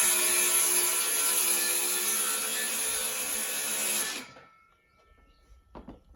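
Electric power saw cutting through a wooden panel, its motor whining steadily, then stopping abruptly about four seconds in, followed by a couple of faint knocks.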